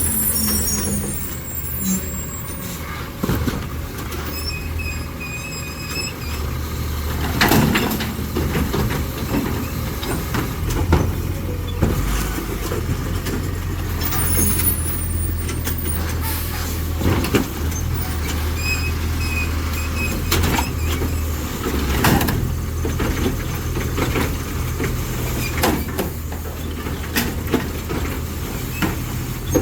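Autocar ACX garbage truck with a New Way Sidewinder automated side-loading arm working its route. The engine runs steadily under repeated clanks and bangs as carts are gripped, lifted and dumped. Air-brake hisses and brief high squeals come and go.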